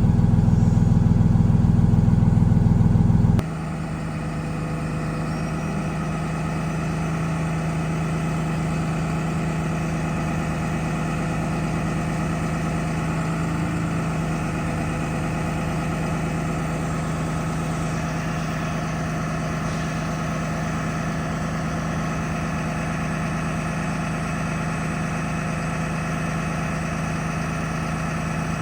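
Cummins 6.7-litre turbo diesel of a Freightliner M2 truck idling steadily. It is louder and heavier at first, then drops abruptly in level about three seconds in and runs on evenly.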